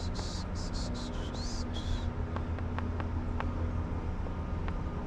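Vehicle engine idling with a steady low hum, with a quick run of short, high chirps over the first two seconds and a few faint ticks after.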